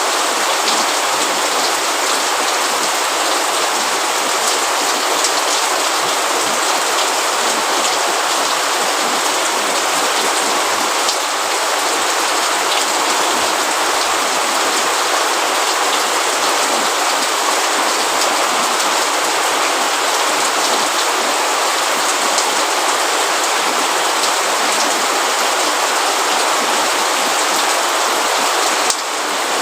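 Steady heavy rain, a dense even hiss speckled with fine, close drop patters, with a brief slight dip in level near the end.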